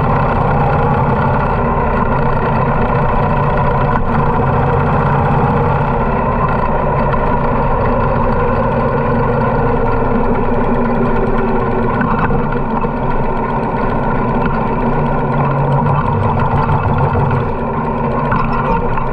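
Harley-Davidson motorcycle engine running steadily while riding at an even speed.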